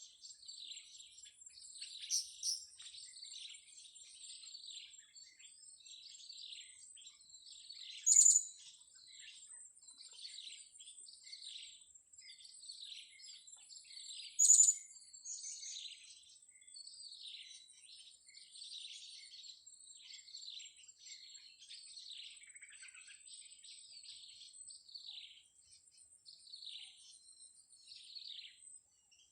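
Blue-crowned hanging parrots (serindit) giving rapid, high thin chirps, nonstop, with two much louder sharp calls about 8 and 14 seconds in. A steady thin high tone runs underneath.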